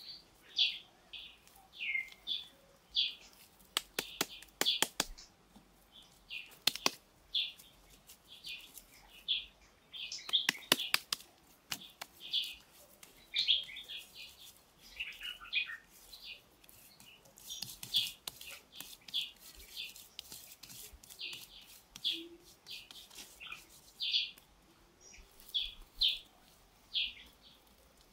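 A bird repeating short high chirps about once a second, with bursts of sharp pats and slaps from hands working wet mud about four, eleven and eighteen seconds in.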